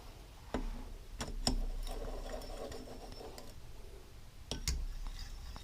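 Scattered light clicks and clinks of metal hand tools and small engine parts being handled on a workbench, about half a dozen separate taps over a faint low hum.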